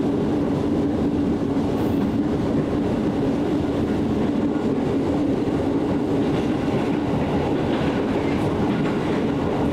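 Jakarta KAI Commuter electric train running at steady speed, heard from inside the car: an even rumble of wheels on rail with a constant low hum.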